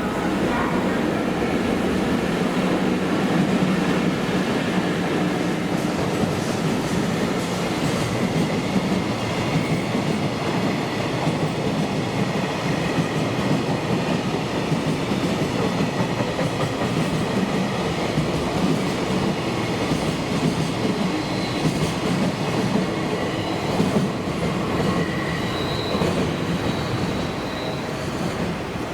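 JR Freight freight train rolling steadily past, wheels clattering over the rails, with faint high wheel squeals near the end.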